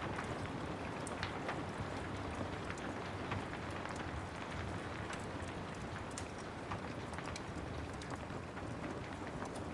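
Steady rain with a wood fire crackling: an even hiss with irregular sharp pops scattered through it.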